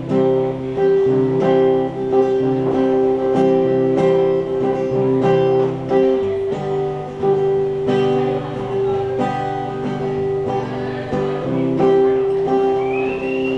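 Acoustic guitar strummed steadily in an instrumental break of a folk song, with no singing. Near the end a high whistled note comes in, sliding upward.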